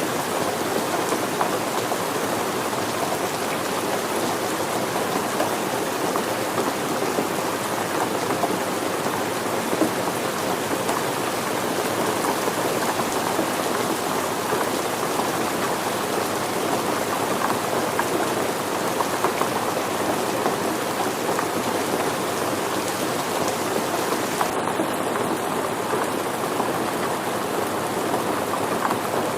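Steady rain falling on surfaces, a dense, even patter and hiss with no let-up. About 25 seconds in, the highest part of the hiss thins slightly.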